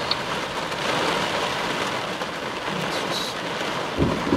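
Heavy thunderstorm rain pelting the vehicle's windshield and body, heard from inside as a dense steady hiss, with a short low thump near the end.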